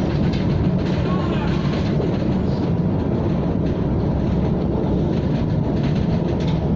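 KTM ETS electric train running at steady speed: a continuous rumble of wheels on rail and running gear, with a faint steady whine.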